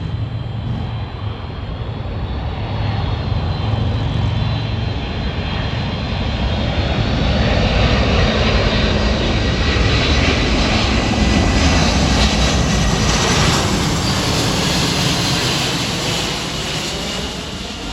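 Boeing C-17A Globemaster III's four turbofan engines passing on its landing approach: a jet roar with a high whine that grows louder, is loudest in the middle, then fades near the end.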